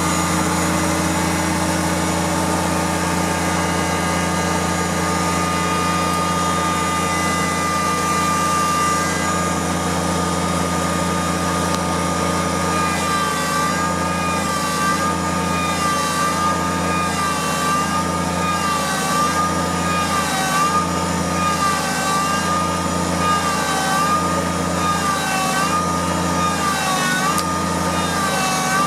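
Kubota tractor's diesel engine running steadily; from about halfway its note starts to waver up and down, rising and dipping about once a second.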